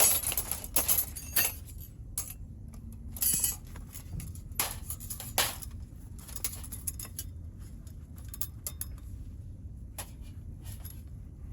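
Thin metal parts of a compact steel fire pit clinking and rattling as they are handled, in short bursts. The sharpest clinks come in the first second and a half, with more around three and a half, five and ten seconds in.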